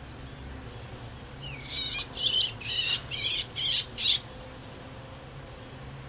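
A songbird singing one short song of about six quick, high, buzzy phrases lasting a little over two seconds, starting with a rising note.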